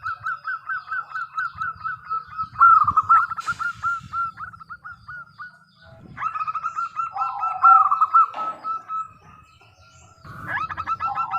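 Zebra dove (local perkutut) singing: long runs of quick, repeated cooing notes in phrases, pausing for about a second near the end before starting again.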